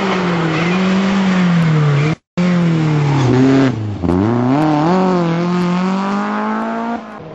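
Rally car engine at high revs through a hairpin, the pitch rising and falling with throttle and gearshifts. Around four seconds in the revs drop low, then climb steadily as the car accelerates away. A brief total dropout comes about two seconds in.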